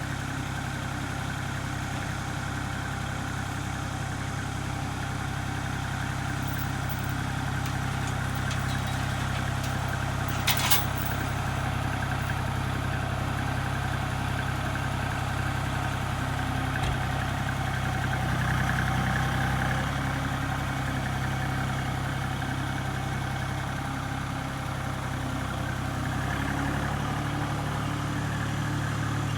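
An engine idling steadily, its note shifting slightly near the end, with a brief sharp metallic sound about ten seconds in.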